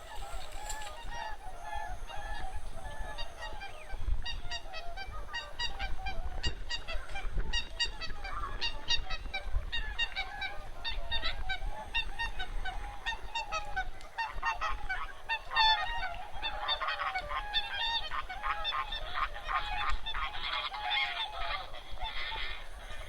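A large flock of wild geese calling, with many short honks overlapping in a continuous chorus.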